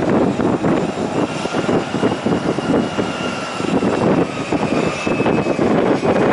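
Jet airliner engines with a thin high whine that drifts slightly down in pitch, under heavy wind buffeting on the microphone.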